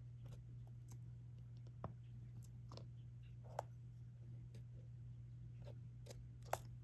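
Faint, scattered clicks and taps of a diamond painting pen picking up resin drills and pressing them onto the adhesive canvas, about seven or eight at uneven intervals, over a steady low hum.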